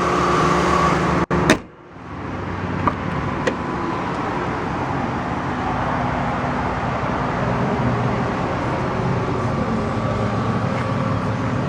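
The 2002 Ford Mustang's 3.8-litre V6 idling steadily. About a second and a half in there is a brief dropout and a knock, after which the engine sound comes back gradually.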